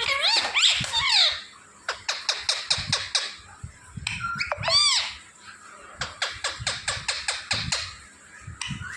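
Pet parrot whistling and chirping: swooping calls at the start, quick runs of short falling chirps at about six or seven a second, and a single arched whistle about five seconds in.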